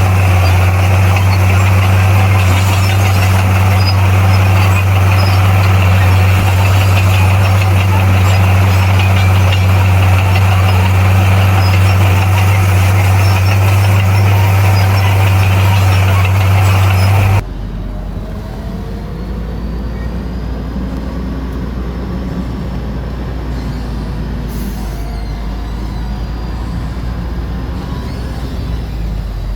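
Heavy diesel earthmoving machinery running steadily with a strong low drone. About two-thirds of the way through, the sound cuts off abruptly to a quieter, lower rumble.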